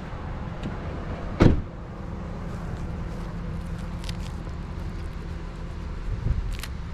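Truck engine idling steadily, with one door shut hard about a second and a half in.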